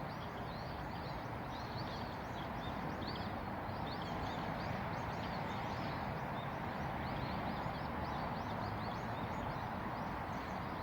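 Small birds chirping repeatedly in short high calls over a steady rush of outdoor background noise.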